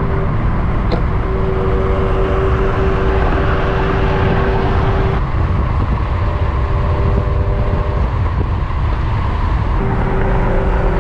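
A car driving, with steady engine and road noise: a constant low rumble under a faint steady drone that fades out for a few seconds in the middle.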